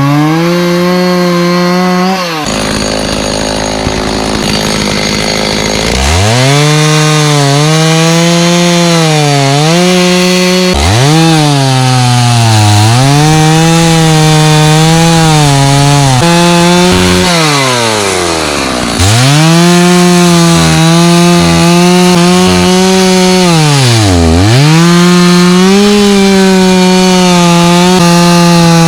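Stihl 029 two-stroke chainsaw cutting dried jack pine at full throttle with a dull chain, its engine pitch sagging each time the bar bogs into the wood and climbing back as it clears. About two seconds in it drops to a lower, rougher idle for a few seconds before revving back up into the cut.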